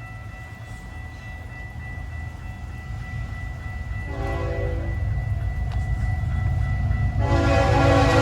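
Approaching freight train: the locomotive's rumble grows steadily louder, with a short blast of its multi-tone horn about four seconds in. A long horn blast starts near the end.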